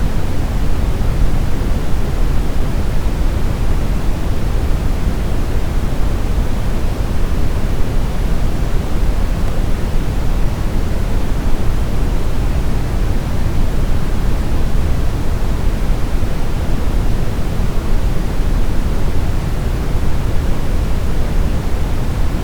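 Steady brown noise: a deep, even rumbling hiss, strongest in the lows and thinning toward the highs, unchanging throughout.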